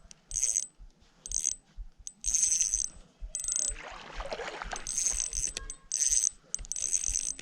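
A fishing reel working in short, high-pitched whirring bursts, about seven of them, while a hooked fish is played. There is a broader rustling noise about four seconds in.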